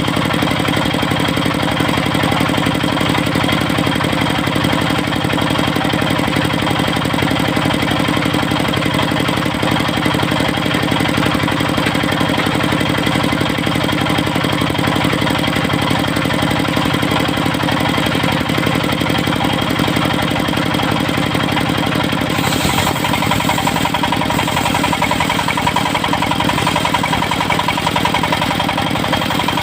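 Engine driving a portable circular-saw sawmill, running steadily. About three-quarters of the way through the sound changes and a higher hiss is added.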